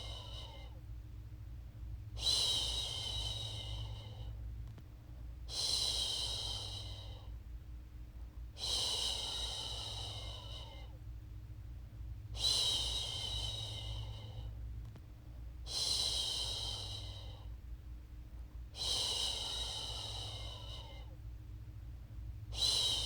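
A woman shushing, "shhh", in long repeated shushes about every three seconds, each lasting around a second and a half, with a softer breathy sound between them: a soothing sound to settle a baby to sleep.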